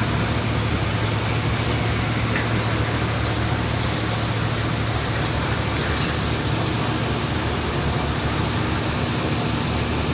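Boat engine running steadily with a low, even hum, under a constant rushing noise.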